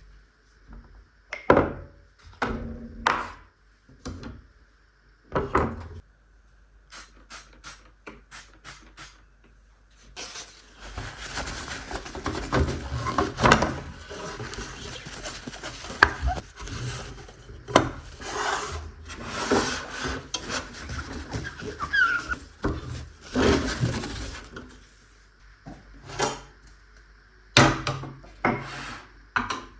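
Kitchen handling sounds: a few separate knocks, then a quick run of light taps. After that comes about fifteen seconds of continuous rubbing and scraping, and more sharp knocks near the end.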